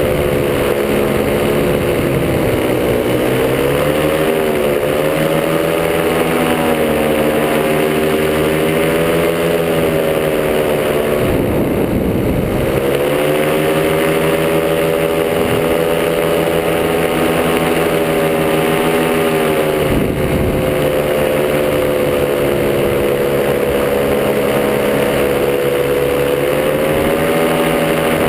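Top80 two-stroke paramotor engine and propeller running in flight, loud and steady, the engine pitch easing down and back up as the throttle is worked, with brief dips about twelve seconds in and again around twenty seconds.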